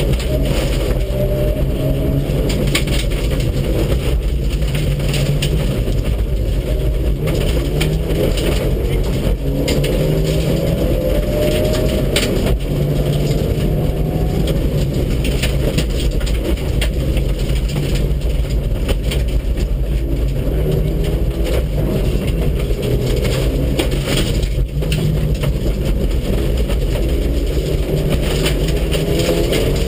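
Mitsubishi Lancer Evolution VII's turbocharged four-cylinder engine driven hard on a rally stage, heard from inside the car. The engine climbs in pitch again and again as it works up through the gears. Under it run a constant rumble of road noise and the clatter of loose gravel hitting the car.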